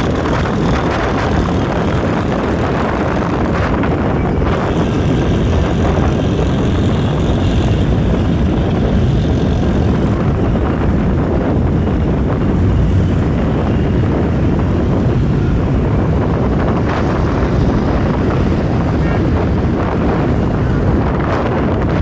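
Vehicle driving along a road: a steady, loud rumble with wind buffeting the microphone.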